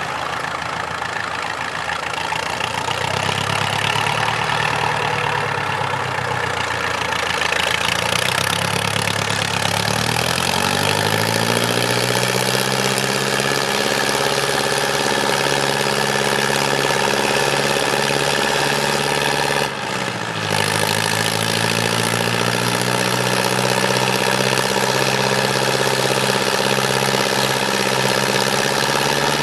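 IFA W 50 off-road trial truck's engine running, its revs climbing about ten seconds in and then held high under load, with a short drop about twenty seconds in before it picks up again.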